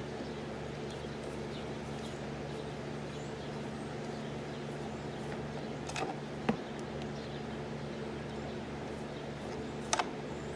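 A steady low hum, with a few sharp clicks and taps from a lawnmower engine's air filter cover being worked loose with a screwdriver: one about six seconds in, another just after, and a quick double click near the end.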